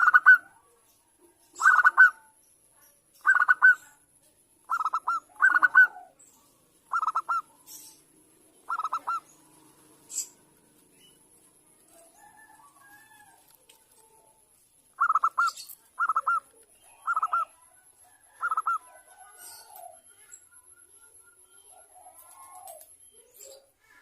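Zebra dove (perkutut) cooing: a string of short, rapid staccato coo phrases about a second and a half apart. A pause of several seconds follows, then four more phrases and some fainter calls.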